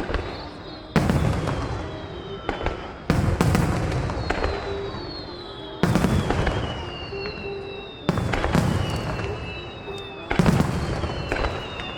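Aerial firework shells bursting in a display: five deep booms about two to three seconds apart. Each boom is followed by rumbling echo and crackle that dies away.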